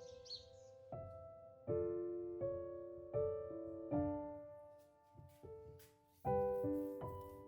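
Slow, gentle solo piano music, single notes and chords that ring on and fade, with a brief pause about five seconds in.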